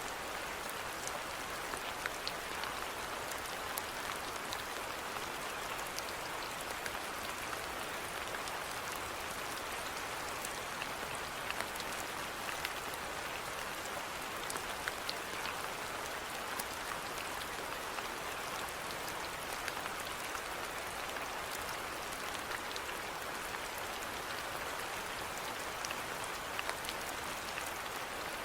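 Steady rain falling, an even hiss with many individual drops pattering distinctly on top.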